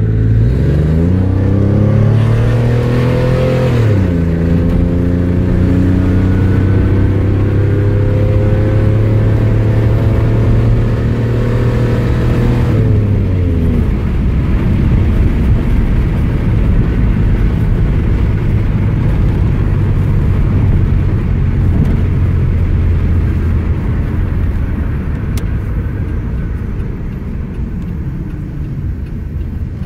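1994 Chevrolet Camaro accelerating hard from about 20 mph: the engine revs climb, drop sharply at a gear change about four seconds in, then climb again in a longer pull until the driver lifts off around the middle. After that the car cruises with a steady engine and road rumble.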